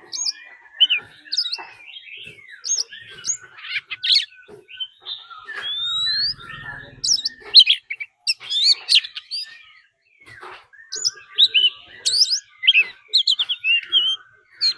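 Oriental magpie-robin singing a combative, territorial song: a varied string of short, clear whistled notes and chirps, some sliding up or down, broken by brief pauses.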